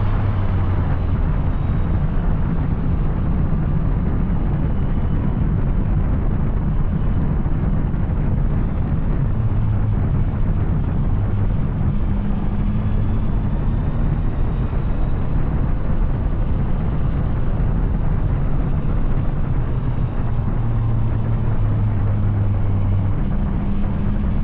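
Yamaha Tracer 900's three-cylinder engine through an Arrow exhaust, riding at a steady cruise: a low engine note that holds near one pitch with small rises and falls, under a steady rush of noise.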